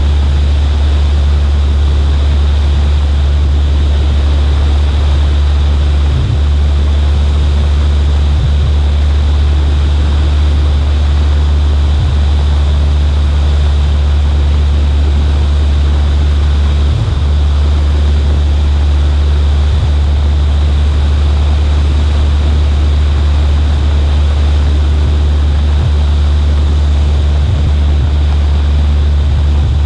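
Cessna 140A light aircraft in flight: its engine and propeller give a loud, steady, unchanging drone, under a heavy rush of wind over a camera mounted on the right wing.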